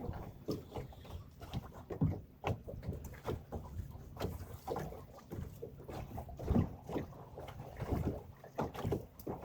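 Small boat on choppy water: irregular low knocks and slaps against the hull, a few each second.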